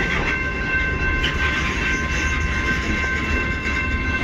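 CN freight train's cars rolling slowly with a low rumble and a steady high-pitched squeal as the train slows to a stop.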